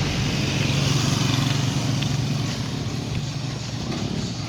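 A passing motor vehicle's engine running with a steady hum, fading as it moves away.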